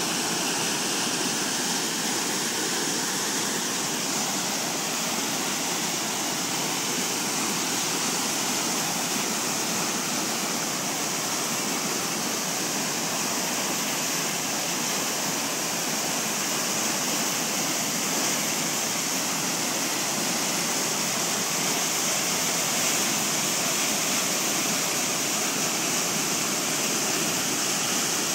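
A flooded creek rushing steadily, a constant loud noise of fast, high water.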